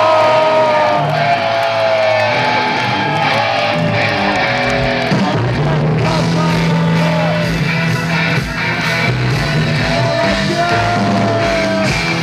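Live rock band playing, with guitar and a singing voice over a steady bass line.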